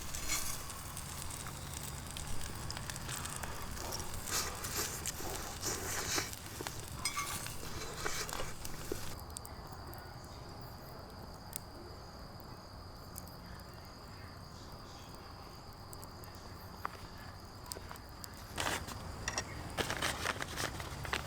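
Crackling and sizzling from cooking over a campfire, with many irregular clicks. For about ten seconds in the middle a steady high-pitched insect call stands out over a quieter background, before the crackling returns near the end.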